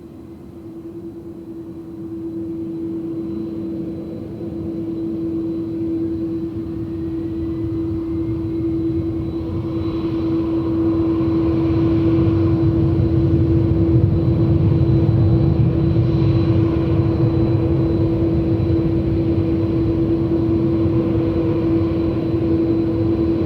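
Jet airliner's engines at takeoff power during the takeoff roll, growing steadily louder for about the first half and then holding loud, with a steady hum underneath.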